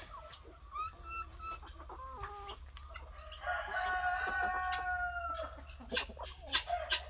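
Chickens clucking in short calls, then a rooster crowing in one long call about three and a half seconds in. A few sharp clicks near the end.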